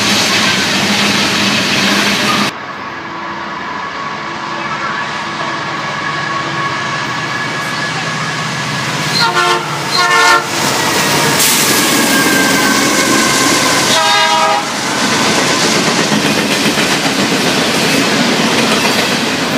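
Freight trains passing close by on the mainline. First the tank cars of a loaded oil train, then, after an abrupt change, a freight led by Canadian Pacific diesel locomotives. Its air horn sounds two short blasts about nine to ten seconds in and a longer one about four seconds later, and then comes the loud rumble and clatter of double-stack container cars rolling past.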